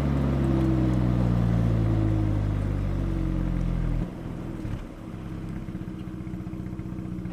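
Mazda RX-8's twin-rotor rotary engine heard from the exhaust end, its note falling steadily as the car slows. About four seconds in the sound drops sharply, and the engine settles to a quieter, evenly pulsing idle.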